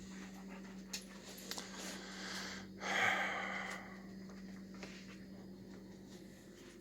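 A puppy snorting and breathing close by, with one louder snort or huff about three seconds in and a few small clicks, over a steady low hum.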